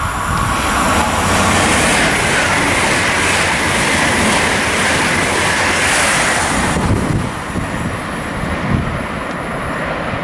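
ICE Velaro high-speed train passing close at speed: a loud, steady rush of air and wheel noise with a strong hiss. About seven seconds in it cuts off sharply to a quieter, steady background noise.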